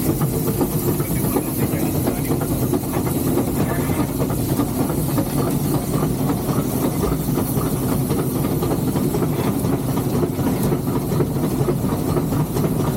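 Steady steam hiss and mechanical running noise in the cab of a three-truck Shay geared steam locomotive.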